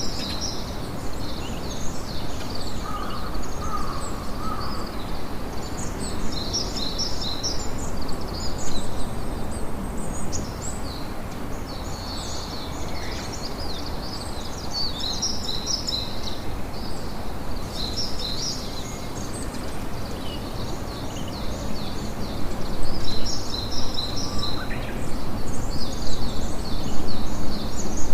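Campfire ambience: a steady crackling fire under many quick, high bird chirps repeating throughout.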